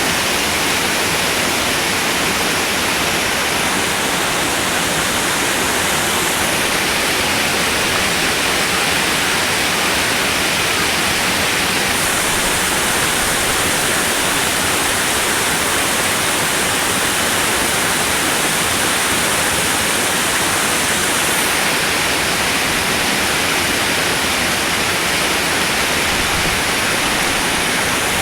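Waterfall: water falling and splashing, a loud, steady rush with no breaks.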